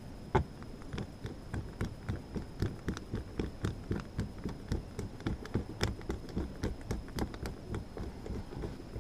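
A rapid, uneven series of light knocks and clicks, several a second, from hands working on a sheet-metal heater register and duct.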